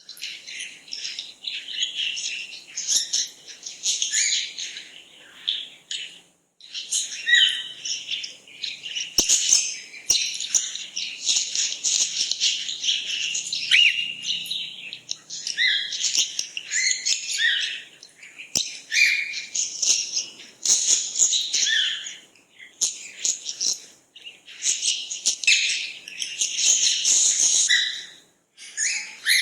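Birds chirping and singing, many quick overlapping high-pitched calls and trills, with a short lull about six seconds in and another near the end.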